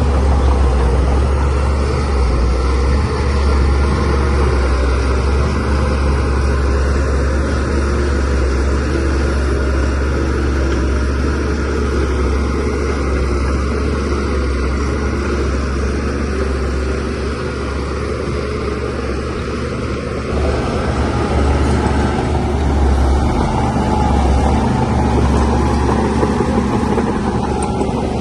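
DH17C3PRO crawler bulldozer's diesel engine running steadily with a deep low drone, working under load, its loudness picking up a little about two-thirds of the way through.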